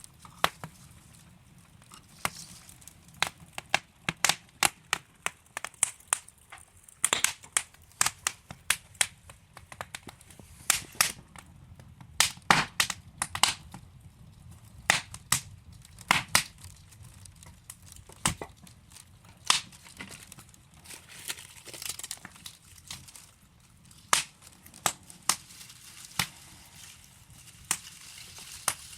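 Wood fire crackling: burning logs give off irregular sharp pops and snaps, several a second at times, over a faint low rumble and hiss.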